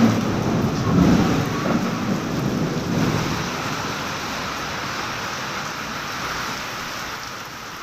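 Heavy monsoon rain pouring down steadily, with a low rumble of thunder over the first few seconds that fades back into the rain.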